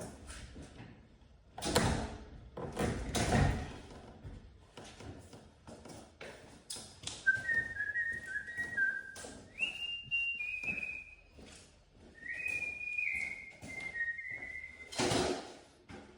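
A person whistling a short tune in held, stepped notes, from about seven seconds in. Heavy knocks come about two and three seconds in, and another near the end.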